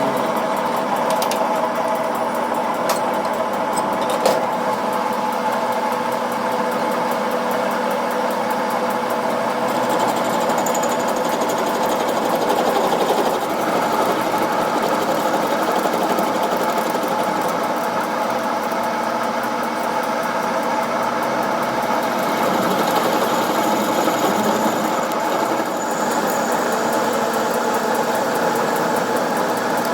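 A workshop machine's motor running steadily, a hum with a higher whine over it, with a few light clicks in the first few seconds.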